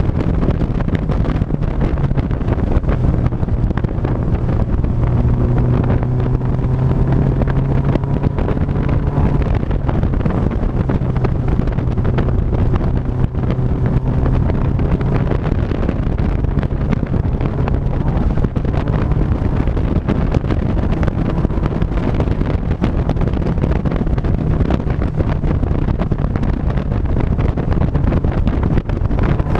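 Wind buffeting the microphone over the steady drone of a vehicle's engine while driving. The engine note holds a low, even pitch, with faint tones drifting slowly in pitch as the speed changes.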